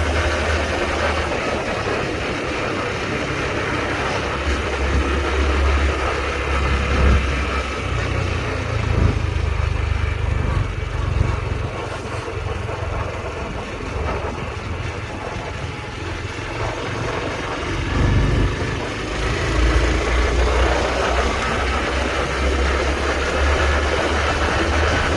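Honda Trail 125's single-cylinder engine running as the motorcycle is ridden, with a steady, noisy road sound throughout.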